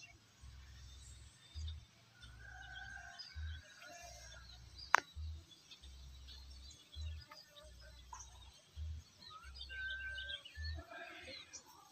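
Faint birds chirping by a river, over a low hum that swells about every two seconds. One sharp click comes about five seconds in.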